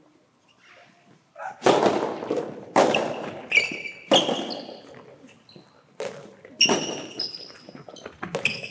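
Soft tennis rally: the rubber ball is struck by rackets and bounces on the indoor court, a sharp echoing knock every second or so, with short high squeaks from players' shoes in between.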